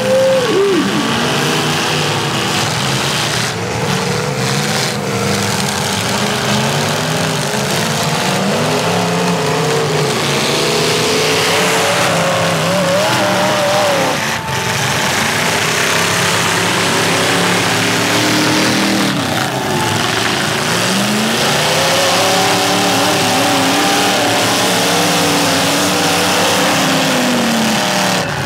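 Several demolition derby cars' engines running and revving at once, their pitches repeatedly rising and falling as the cars accelerate and back off.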